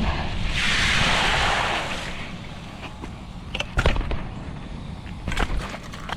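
A rush of splashing water lasting about a second and a half near the start, over wind rumbling on the microphone, followed by a few sharp knocks.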